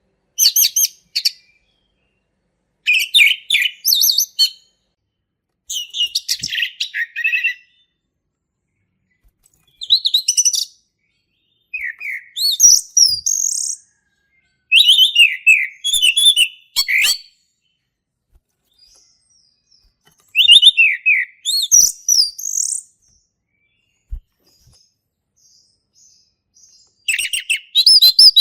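Male orange-headed thrush singing: a string of short, varied phrases of clear whistles and quick twittering notes, each lasting a second or two, separated by pauses. Two longer pauses fall in the second half.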